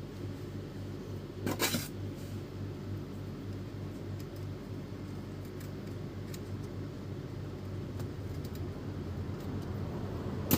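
Light clicks and a brief scraping rustle about one and a half seconds in, from hands working on an Epson L310 inkjet printer, over a steady low hum.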